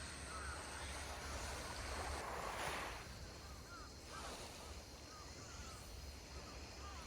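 Sea waves washing on the shore with wind rumbling on the microphone; one wave swells up about two to three seconds in. Faint short chirps come and go throughout.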